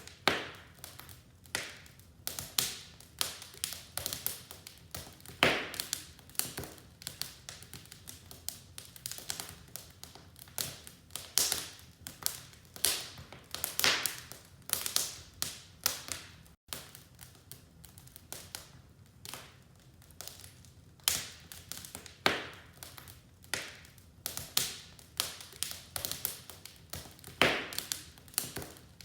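Wood fire in a fireplace crackling, with irregular sharp snaps and pops of burning logs over a faint steady hiss.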